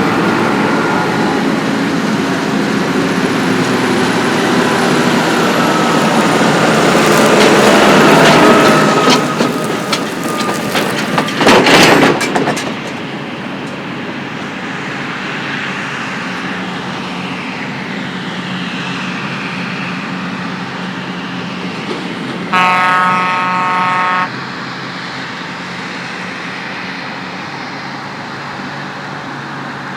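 Heavy harvest machinery driving close by: loud engine and rattling noise that swells and then drops away about 12 seconds in, leaving a steadier engine hum. A vehicle horn sounds once for about two seconds in the second half.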